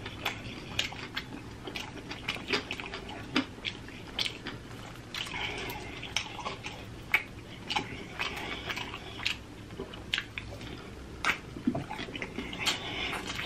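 Close-miked mouth sounds of a person eating sauce-coated fried chicken wings: chewing, biting and wet lip smacking, with irregular short smacks and clicks several times a second.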